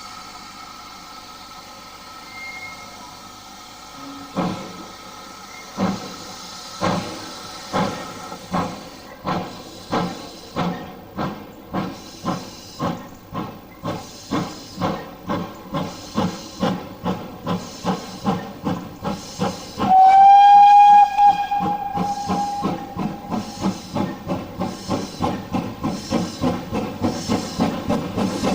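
Steam locomotive starting away. A steady hiss of steam gives way, about four seconds in, to exhaust chuffs that begin slowly and quicken to about two beats a second. A brief, loud whistle blast comes about two-thirds of the way through.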